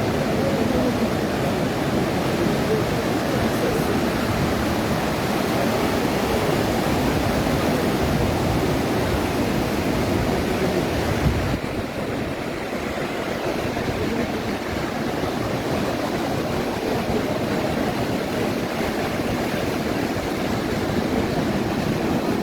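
Atlantic surf and wind on the microphone: a steady rushing noise, heaviest in the low range, turning slightly duller about halfway through.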